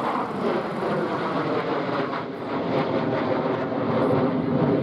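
Jet noise from a US Air Force Thunderbirds F-16 flying over: a loud, steady rush that deepens in pitch toward the end.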